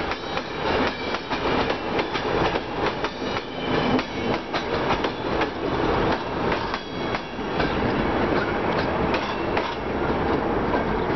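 Passenger train coaches rolling past on the track: a steady rumble of wheels on rail, full of rapid clicks and knocks as the wheels cross rail joints. The last coach passes about halfway through.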